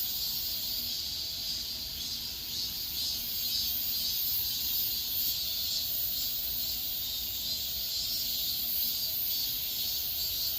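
Steady, high-pitched chorus of insects with a slight pulsing.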